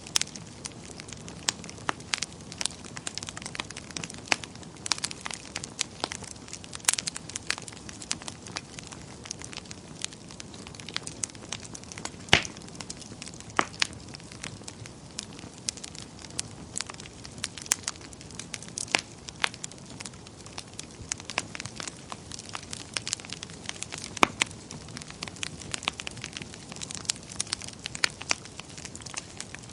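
Wood fire burning in a fireplace: a steady low rush of flame with constant irregular crackling and occasional sharper pops of the burning logs.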